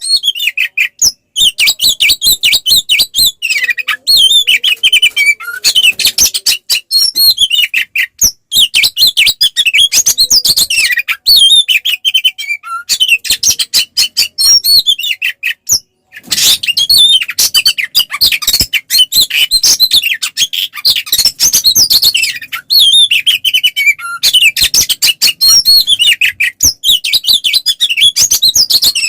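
Oriental magpie-robin (kacer) singing a loud, fast, fighting-style song of rapid varied notes and sharp clicks, in long bursts broken by short pauses about a second in, near eight seconds, near sixteen seconds and near twenty-four seconds.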